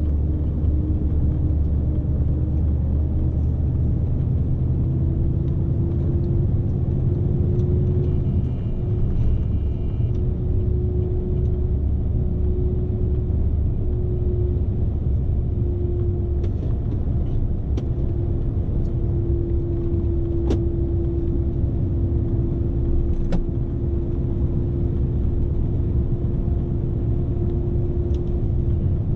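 Steady rumble and road noise inside the cab of a loaded Scania S520 truck on the move, with a steady whine that drifts slightly up in pitch and a few faint clicks.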